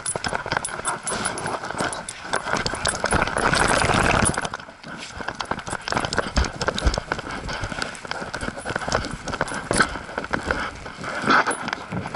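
Footsteps while walking, with dense irregular clicks, scuffing and rustling of camera handling noise. It is busiest and loudest from about three to four and a half seconds in, then drops off briefly.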